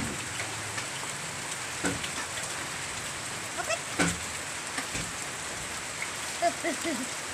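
Steady rain falling, a continuous hiss with a few sharper drip-like taps scattered through it.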